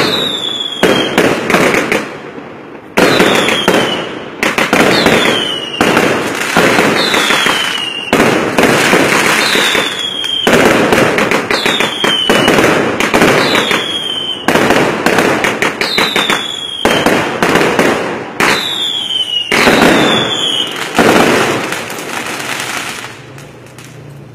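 Fireworks going off in rapid succession: loud bangs about every second, each with a short falling whistle and a trail of crackling. They die away near the end.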